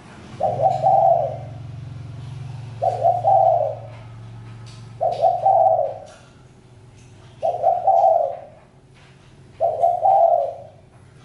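Spotted dove cooing: five calls about two seconds apart, each a short run of notes lasting about a second.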